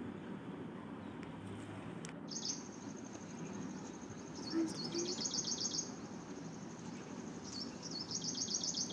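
Small birds chirping in fast, high-pitched twittering trains, starting about two seconds in and busiest in two spells, midway and near the end.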